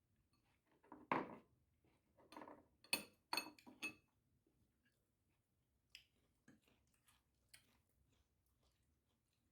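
Dishes and cutlery clinking and knocking: a quick run of sharp clinks in the first few seconds, the last of them ringing briefly, then a few faint scattered clicks.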